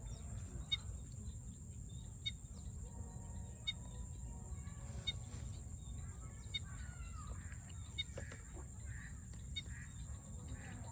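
Outdoor bird calls, of the kind from farmyard fowl, over a steady high-pitched drone and short repeated chirps.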